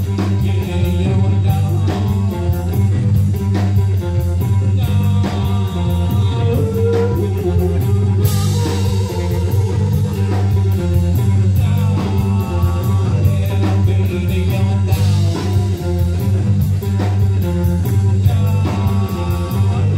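Live band playing a rock-blues number: guitar over bass and a drum kit with a steady hi-hat beat, with cymbal crashes about eight and fifteen seconds in.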